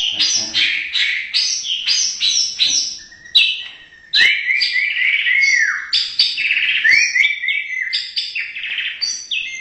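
White-rumped shama (murai batu) singing loudly: a fast, varied run of sharp whistled notes. About midway there is a short lull, followed by rows of repeated arching whistles.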